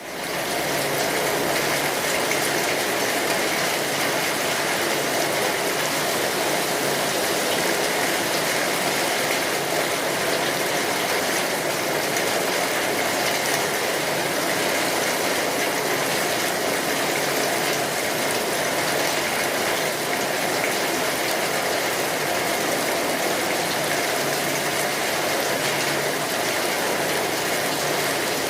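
Steady rainfall: an even, unbroken hiss of rain that fades in at the very start and then holds at a constant level.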